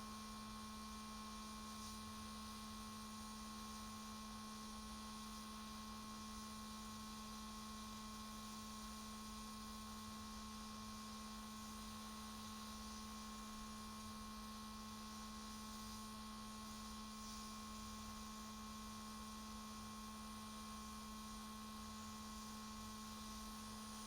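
Steady, faint electrical hum with a light hiss, unchanging throughout.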